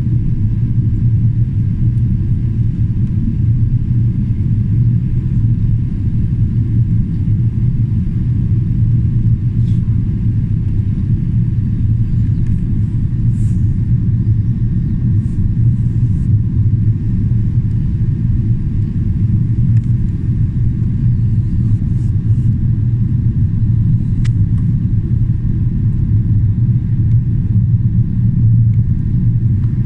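Steady low rumble of cabin noise inside a Boeing 777-300ER in flight: engine and airflow noise from its GE90 turbofans during the approach.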